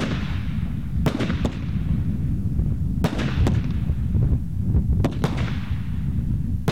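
Fireworks going off in a display: sharp bangs, often in close pairs, about every two seconds, each trailing off in a fading rush, over a steady low rumble.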